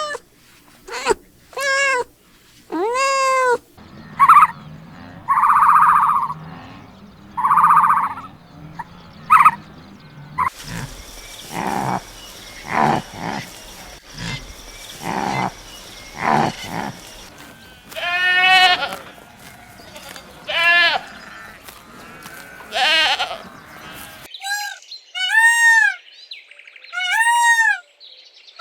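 A run of short animal calls from several different animals in turn, among them goat bleats.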